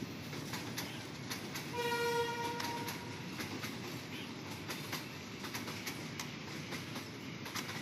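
Accident relief train running along the track, its wheels clacking over the rail joints, with one horn blast of about a second just under two seconds in.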